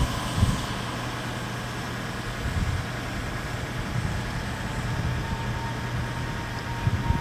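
Steady low hum from a Meitetsu electric train, with a few low knocks.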